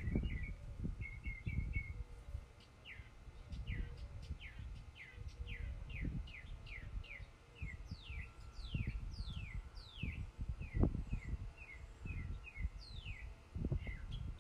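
Songbirds singing: a few short chirps, then a long run of quick whistled notes that each slur downward, repeating about twice a second. An irregular low rumble runs underneath.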